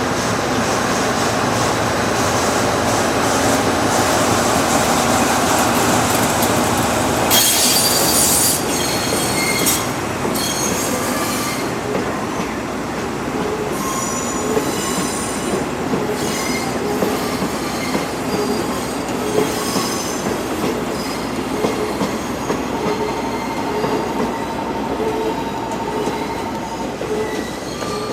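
Freight train wagons rolling slowly through the yard, with a steady rumble at first and a sudden loud burst of high noise about seven seconds in. After that come scattered high wheel squeals at several pitches and a regular clack a little over once a second as the wheels pass rail joints.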